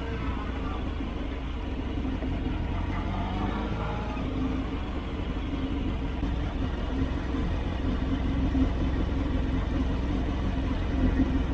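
Motorcycle engine running at low revs under a deep rumble of wind on the microphone. Its pitch shifts up and down for the first few seconds, then holds steady.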